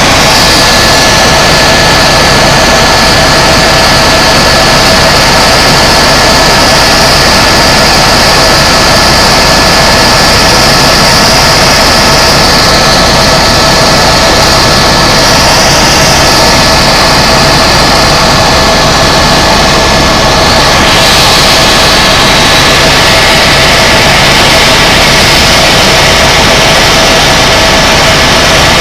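Tour helicopter in flight, heard from inside the cabin: a loud, constant rush of turbine and rotor noise with a steady high whine running through it.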